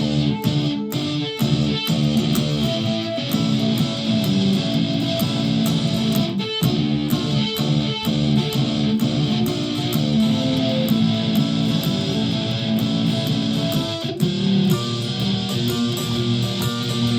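Flight Centurion solid-body electric ukulele playing picked notes and strums through a home-built clone effects pedal, a Tonex One and a PA speaker.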